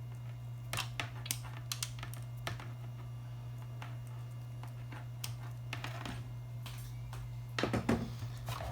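Irregular small clicks and taps of speaker cable and plastic speaker terminals being handled and connected, with a louder cluster of handling noise near the end, over a steady low hum.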